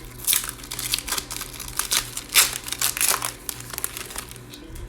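Foil wrapper of a Donruss Elite trading-card pack crinkling in a run of sharp crackles as it is handled and opened, loudest about two and a half seconds in.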